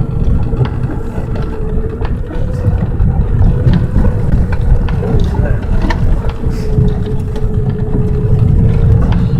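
Chevrolet Cavalier heard from inside the cabin, driving on a snowy, slushy dirt road. The engine runs under load with a steady hum over a heavy low road rumble, with scattered knocks and clicks.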